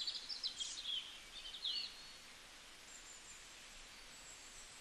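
Faint birdsong: a flurry of quick high chirps and trills in the first two seconds, then a soft steady hiss with a few thin, distant whistles.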